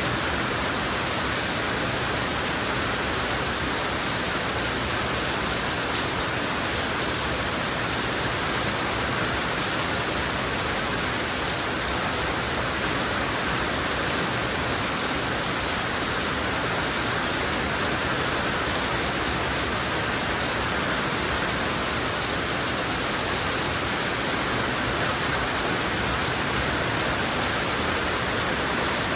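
Heavy rain falling steadily, an even unbroken hiss with no single drops or thunder standing out.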